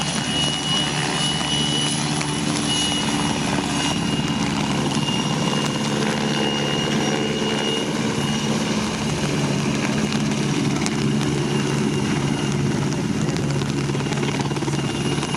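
Czech Air Force search-and-rescue helicopter running steadily: an even rotor and engine hum with a thin, high turbine whine above it.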